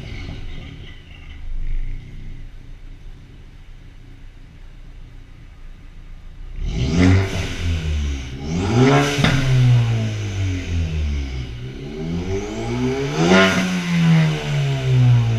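2013 Ford Focus ST's turbocharged 2.0-litre EcoBoost four-cylinder, on an aftermarket MBRP exhaust and a pops-and-crackles tune, running low and steady at first. About halfway through it is revved up and down several times, each rise in pitch falling away slowly.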